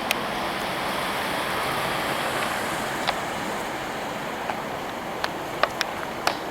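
Steady rush of water running from an outflow channel, with a few sharp clicks or taps, most of them near the end.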